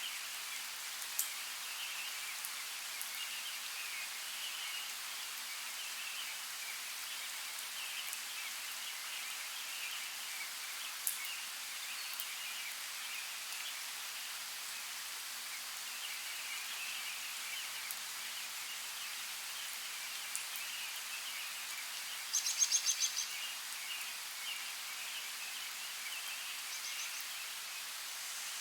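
Steady rain hiss with the odd sharp drip, and faint chirping behind it. About three-quarters of the way through, a brief rapid trill is the loudest sound.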